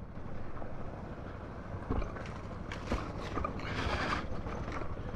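Suzuki DR650's single-cylinder engine running steadily at low revs while riding a rough trail, with sharp knocks and rattles from the bike and a brief rushing hiss about four seconds in.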